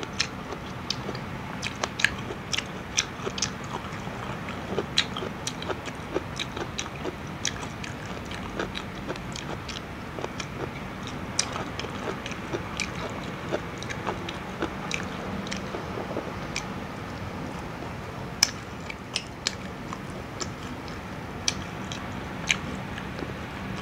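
Close-miked eating of breaded fried fish: chewing and biting, with irregular crisp clicks from the crust scattered throughout. A steady low hum runs underneath.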